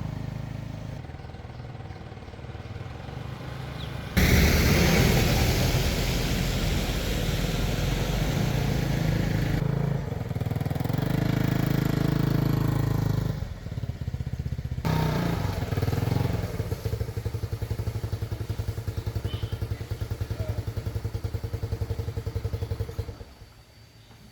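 A small engine running with a rapid steady pulse, its sound changing abruptly several times.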